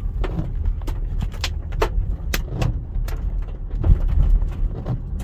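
Large, golf-ball-sized hail striking a car's body and glass: irregular sharp bangs, several a second, over a steady low rumble of the storm.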